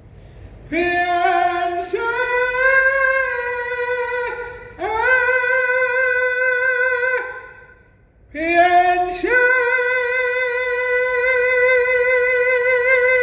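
A solo voice singing unaccompanied vocal exercises: three phrases, each starting on a short lower note and leaping up to a long held higher note with vibrato, the last held longest.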